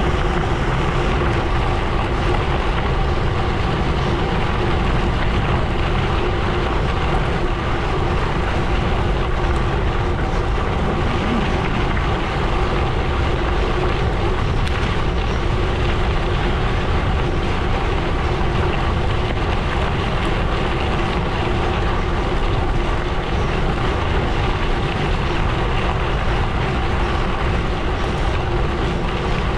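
Gravel bike tyres rolling over a gravel road: a loud, steady rumble with no breaks, with a faint steady hum running through it.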